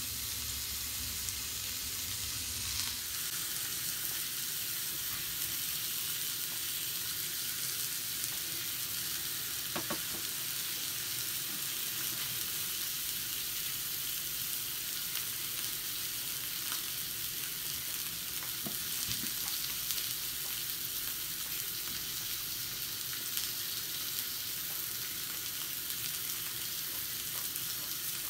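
Sausages, meat and vegetables sizzling in a skillet over a gas canister camping stove: a steady frying hiss, with a few light clicks.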